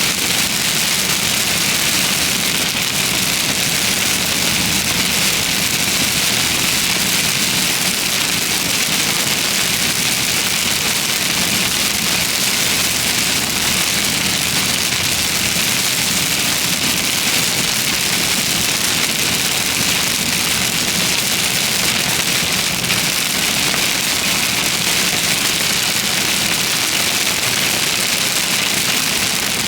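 Rain falling steadily and heavily on a vehicle, an even hiss, with a vehicle engine's low hum beneath.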